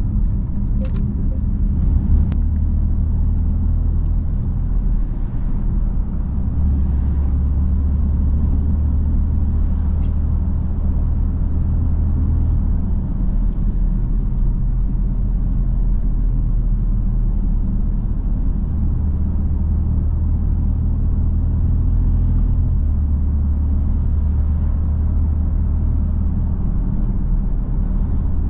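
BMW M3 F80's 3.0-litre twin-turbo inline-six and exhaust droning while cruising, a low, steady note that steps up and down in pitch every few seconds as engine speed changes.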